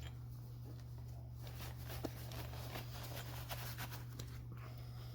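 Light clicking and scratching of steel wire rope strands being handled and wrapped by hand during an eye splice, a quick run of small ticks in the middle, over a steady low hum.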